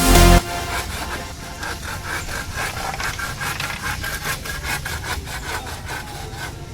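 Electronic dance music cuts off about half a second in, then a hand tool scrapes back and forth in rhythmic strokes, about three a second, like sawing or filing by hand.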